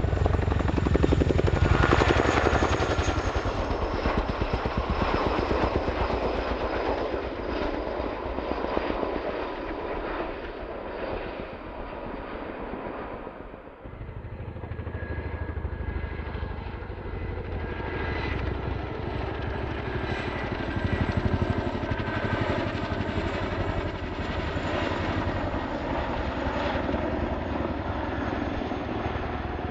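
Boeing CH-47D Chinook tandem-rotor helicopter in flight: the rotors make a rapid, even thudding over the steady whine of its twin turboshaft engines. It is loudest about two seconds in, fades briefly around the middle, then comes back up.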